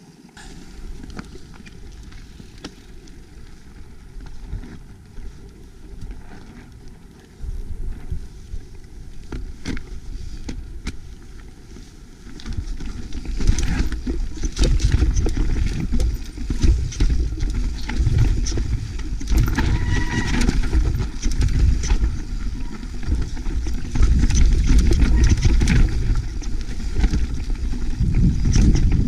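Mountain bike descending a rocky trail: tyres rumbling over rock and the bike rattling and clattering, with wind noise on the microphone. It gets clearly louder from about halfway as the speed picks up.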